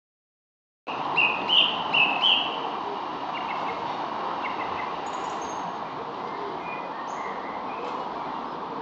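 Birds chirping against a steady background hiss. The sound starts abruptly about a second in, after silence. A few loud chirps come first, then fainter, scattered chirps and a few very high notes.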